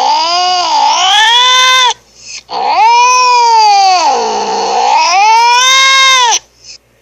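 A cat yowling in long drawn-out meows. One call ends about two seconds in; a second, about four seconds long, sinks in pitch and climbs back before cutting off.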